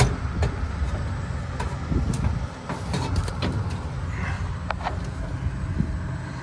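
Scattered metal clicks and knocks as a blower pulley is worked onto its tight shaft and tools are handled, over a steady low rumble.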